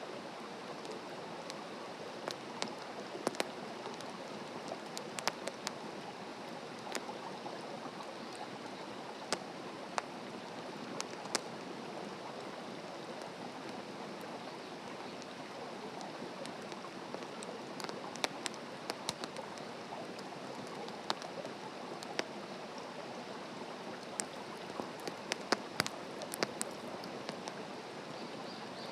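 Open wood campfire burning: a steady hiss with irregular sharp crackles and pops.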